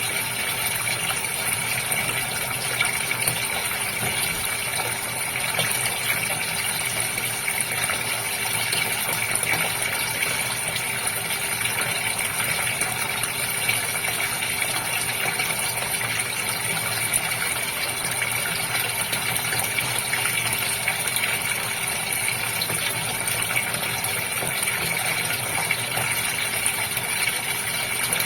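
Water splashing and running steadily in a goldfish aquarium, with a steady pump hum underneath.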